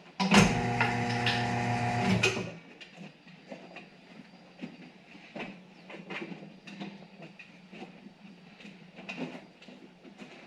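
Electric motor of a tire-changer machine running with a steady hum for about two seconds, then stopping, followed by light clicks and taps of work on the wheel.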